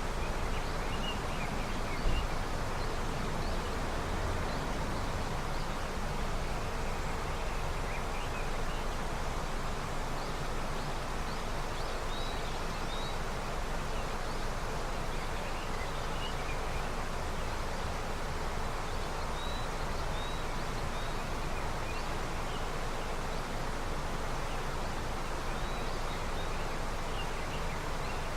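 Snowmelt river flowing with a steady rush of water, with small bird chirps scattered faintly over it. A brief low thump about two seconds in.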